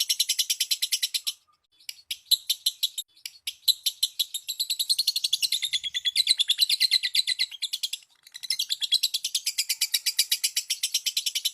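Lovebird chattering in its long, rapid 'ngekek' trill: shrill chirps repeated about a dozen times a second, broken by brief pauses about a second and a half in and again near eight seconds.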